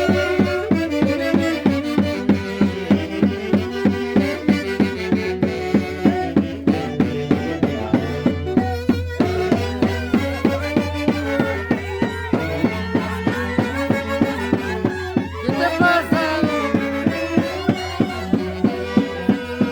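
Santiago dance music from Peru's Mantaro Valley played by a band: a melody over a fast, steady beat of about three strokes a second.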